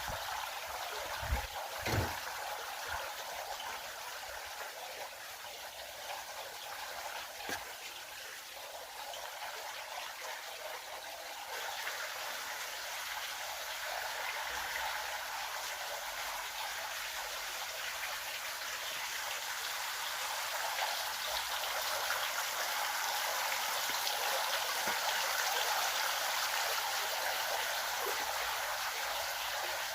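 Water flowing steadily in a stream, an even wash of sound that grows a little louder about a third of the way in. A couple of short low knocks sound about two seconds in.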